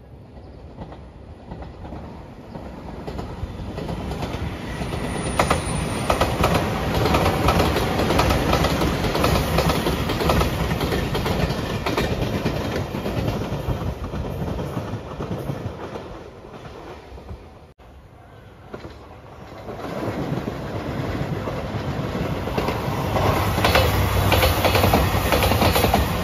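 A JR Shikoku 8000 series electric limited express passes, its wheels clacking over the rail joints, growing louder over several seconds and then fading. The sound breaks off about two-thirds of the way through. Then a JR Shikoku 2700 series diesel express approaches, growing louder toward the end with a low steady drone.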